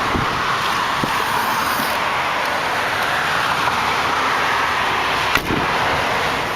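Steady road traffic noise from passing vehicles, with a single sharp click about five seconds in.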